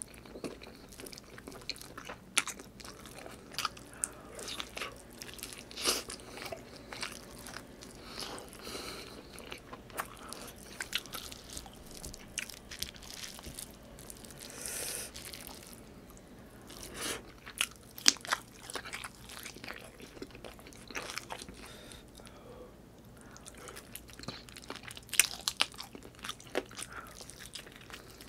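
Close-miked wet chewing and lip-smacking of a man eating sauce-soaked braised chicken adobo and rice with his hands, with irregular mouth clicks and smacks. There is a longer hissing stretch about halfway through and one sharp smack a few seconds later.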